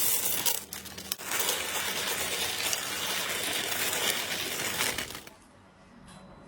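Slime being squeezed and worked by hand, a dense crackling of many small pops and clicks that dies away about five seconds in.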